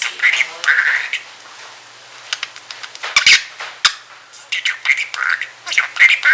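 Budgerigar mumbling while drowsy: scattered short chirps, warbles and clicks in loose clusters, the sleepy chatter budgies keep up while napping.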